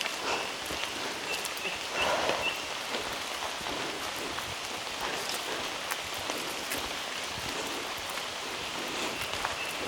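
Rain falling on rainforest foliage, a steady patter with scattered sharp drips of water drops. A few short high chirps sound in the first couple of seconds.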